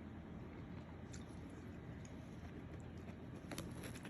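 Faint eating sounds: a few soft mouth clicks while a bite of fried chicken with gravy is chewed, over quiet room tone.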